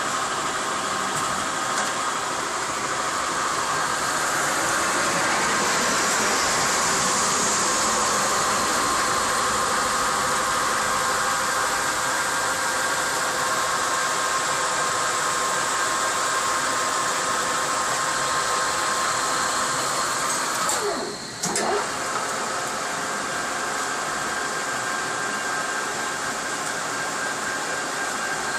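Nardini lathe running, its spindle and drives giving a steady whine of several tones over a hiss. About 21 seconds in, the sound dips for a moment and the pitch sweeps down and back up.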